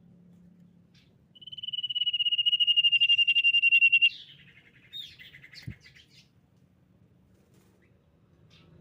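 Common iora singing: one long, rapid trill held at nearly one high pitch and falling slightly, lasting about two and a half seconds, followed by a few short, scattered notes.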